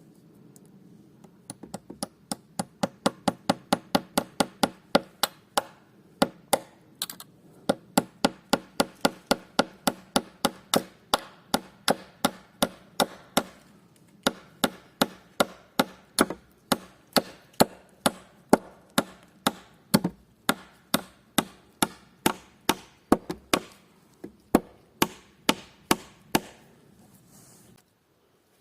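Steady, rapid strikes of a hand tool on wood, about two to three a second, with a couple of short breaks: woodworking blows during construction of a timber outhouse.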